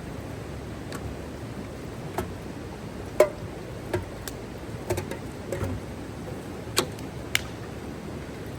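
Irregular sharp clicks and knocks, about nine of them with the loudest about three seconds in, over a steady background hiss.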